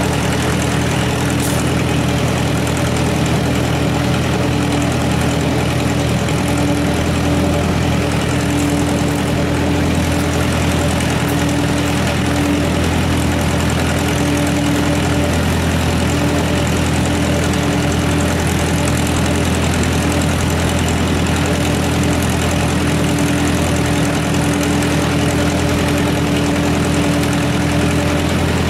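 Tractor engine idling steadily at an even, unchanging speed.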